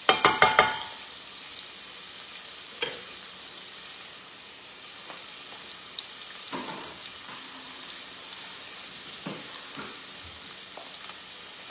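Marinated chicken pieces sizzling as they fry in a hot pan, a steady hiss. In the first second a metal utensil clatters several times against the pan, with a short ring, and there is one more click about three seconds in.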